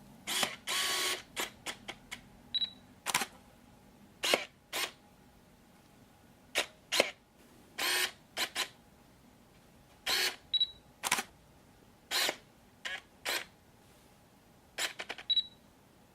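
Camera with a telephoto lens catching focus: short whirs of the autofocus motor and sharp shutter clicks at irregular intervals. Three times there is a brief high beep, the camera's focus-confirmation signal.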